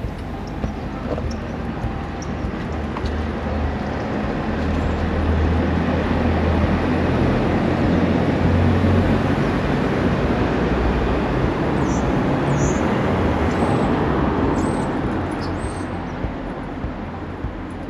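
A motor vehicle driving past, its engine and tyre noise swelling over several seconds, loudest midway and then fading away.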